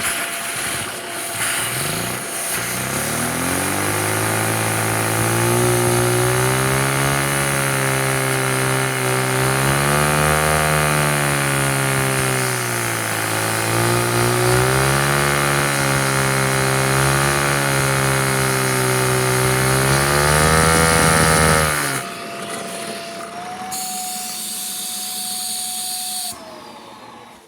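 LEGO vacuum engine driven by the suction of a vacuum cleaner. Over a couple of seconds it speeds up into a loud buzzing hum that wavers up and down in pitch, over a steady rush of air. About 22 s in the buzz and the rush stop, and a single high whine stays on before winding down near the end.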